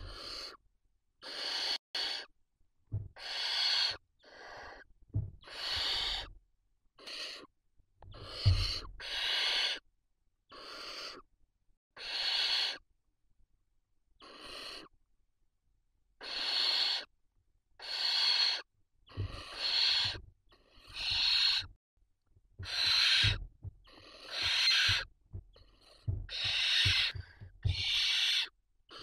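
Barn owl chicks hissing in the nest: a long string of harsh, breathy hisses, each about half a second to a second long, following one another with short gaps, the begging calls of nestlings. A few soft low thumps sound under some of the hisses.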